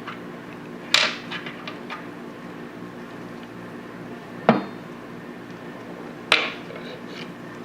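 Small steel parts of a Tokarev TT-33 pistol clinking and tapping against a hard surface while it is reassembled. There are three sharp metallic clicks, about a second in, in the middle and near the end, with a few lighter taps after the first, over a steady low hum.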